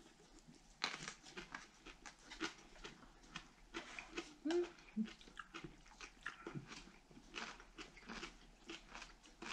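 Cabbage kimchi being chewed with chopsticks, a run of faint, irregular crunches and wet mouth clicks.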